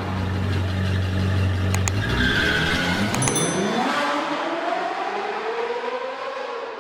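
Car engine running steadily, then rising in pitch for several seconds as it revs up.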